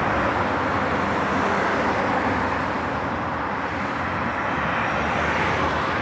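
Steady outdoor background noise, even and unbroken, with no distinct calls or separate events standing out.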